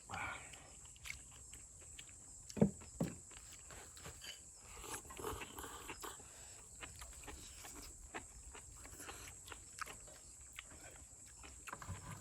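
People eating ramyeon noodles and stew, slurping and chewing, with scattered light clicks of utensils; a brief louder slurp or grunt about two and a half seconds in.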